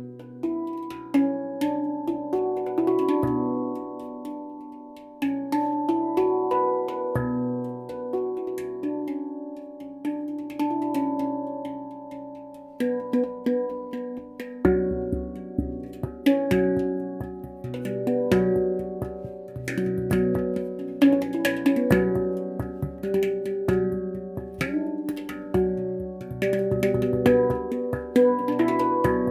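Stainless steel handpan played by hand: a melody of struck notes that ring on and overlap. The playing is sparser in the first half and becomes busier, with deeper bass notes, from about halfway.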